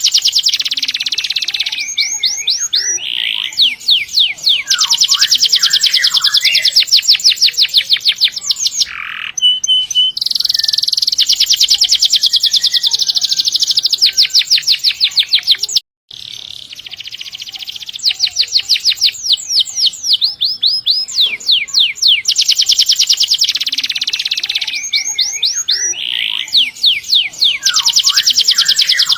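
Domestic canary singing long, rapid rolling trills of fast repeated high notes, some runs blurring into a continuous roll. The song stops dead for a split second about halfway through.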